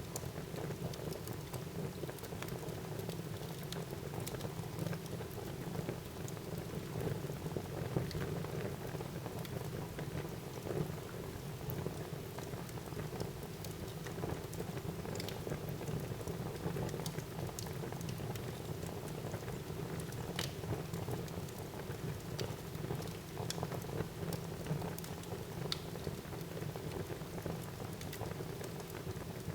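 Wood fire burning in a fireplace: a steady rushing hiss of the flames with scattered small crackles and pops.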